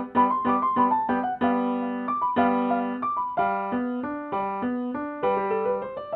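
Solo piano playing a classical sonatina: a melody in the upper register over repeated accompaniment notes in the lower hand.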